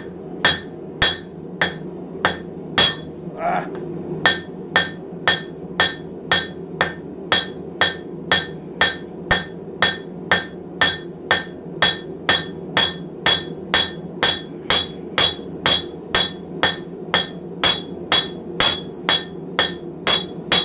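Hand hammer striking hot steel on an anvil in a steady rhythm, about two and a half ringing blows a second, drawing the bar's end out thin into a taper. The blows break off briefly about three and a half seconds in, over a steady low hum.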